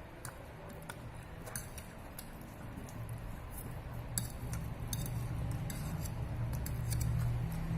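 Small clicks and clinks of chopsticks and a fork against a bowl of instant noodles while eating, scattered and irregular. A low rumble builds from about halfway and grows louder toward the end.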